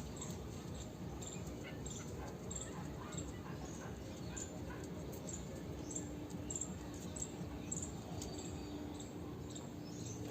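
Munias calling in a flock, a stream of short, high chirps coming every fraction of a second, with a steady low hum underneath.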